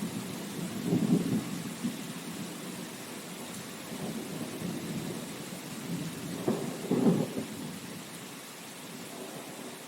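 Steady rain with rolling rumbles of thunder, strongest about a second in and again around seven seconds in, then dying away near the end.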